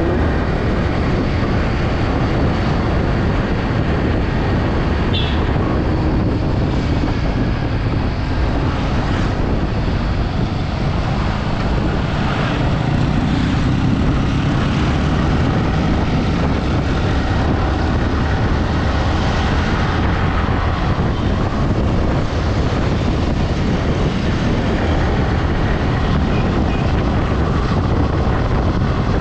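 Yamaha R15 V3 motorcycle being ridden at a steady pace: its engine drone mixed with steady wind rush, the level holding even throughout.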